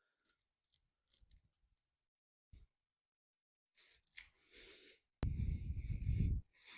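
Scattered small clicks and rustles, then crinkling and rustling handling noise, with a loud low rumble lasting about a second near the end.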